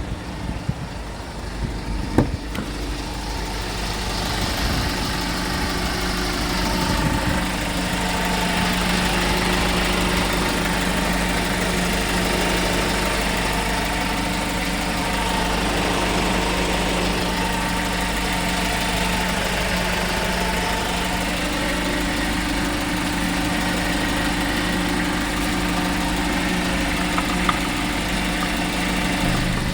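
Diesel engine of a 2014 Kia Bongo 3 truck idling steadily, with one sharp click about two seconds in.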